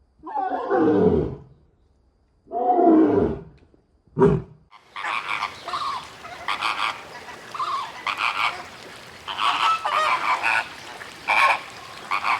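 Three loud animal calls, each sliding down in pitch, the last one short. About five seconds in the scene changes to a busy flock of birds, like geese or ducks, calling over and over against a noisy background.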